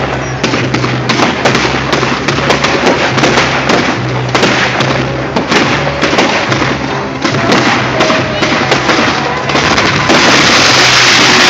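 Display fireworks going off in quick succession, many sharp cracks and bangs, over music played for the display. About ten seconds in a dense, loud hiss takes over.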